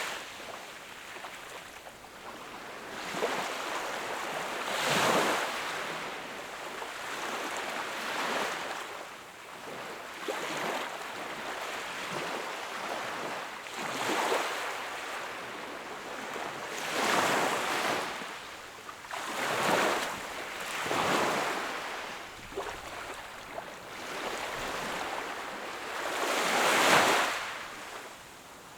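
Sea waves breaking and washing up on the shore, a new wash surging every few seconds, the biggest near the end.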